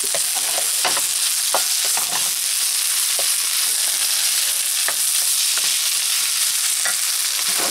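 Kimchi fried rice with pork and egg sizzling in a frying pan, stirred with a utensil that scrapes the pan and knocks against it now and then. The sizzle is a steady hiss.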